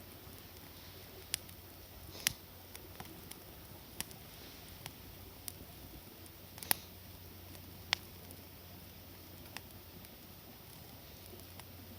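Wood campfire crackling: scattered sharp pops and snaps at irregular intervals, about one every second or so, over a faint steady hiss.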